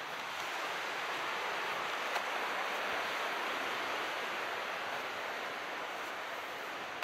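Calm sea: waves washing in as a steady hiss that swells a little in the middle and eases toward the end.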